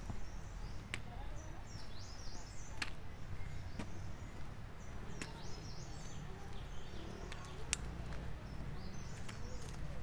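Small birds chirping in short, high, rising-and-falling phrases, in several clusters, over a steady low rumble with a few sharp clicks.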